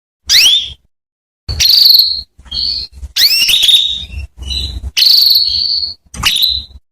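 Female canary calling: a string of about seven short calls, each a quick rising chirp or a buzzy trill, with brief silent gaps between them. These are the calls that prompt a male canary to sing.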